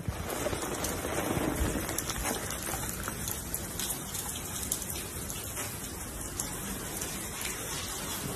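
Steady rain falling on wet pavement, with many small scattered drop ticks.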